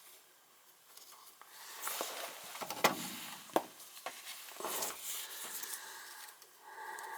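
Hands handling and working low-voltage thermostat wires at a furnace: rustling and scraping, with two sharp clicks about three seconds in. A steady hum of a few tones starts near the end.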